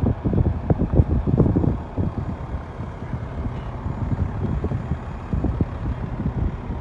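Wind buffeting the microphone in uneven gusts over the low rumble of idling garbage trucks. The gusts are strongest in the first two seconds and ease off after that.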